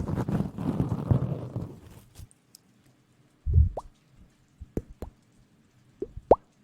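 Close-miked ASMR sounds: about two seconds of rustling, then after a pause a few wet plops whose pitch rises quickly, with a couple of sharp clicks between them.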